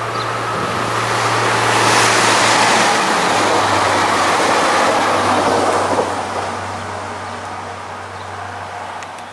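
Electric passenger train with a Regiolis multiple unit passing at speed close by: the rolling noise builds, peaks about two seconds in, then fades as the train moves away. A steady low hum under it drops in pitch as the train goes past.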